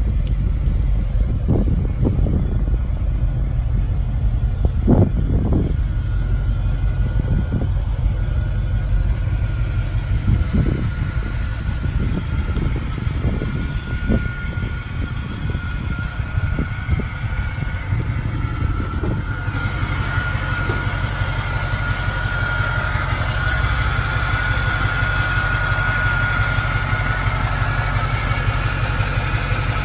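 1995 Chevrolet Impala SS's LT1 5.7-litre V8 idling with a steady low rumble. About two-thirds of the way through, a steady high whine from the engine bay joins in over it.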